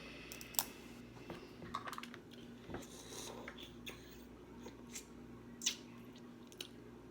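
Scattered small clicks and crackles of snow crab shells being handled and cracked apart during eating, with a faint steady hum underneath.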